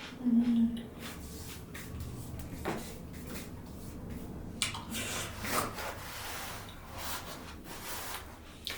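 A person eating: chewing and handling food and dishes, with scattered rustles and clicks. A short low hummed "mm" comes about half a second in.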